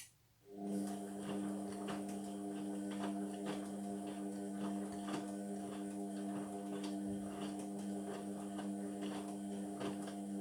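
Indesit washing machine on its synthetics cycle: a click, then about half a second in a steady motor hum starts, with scattered light knocks through it.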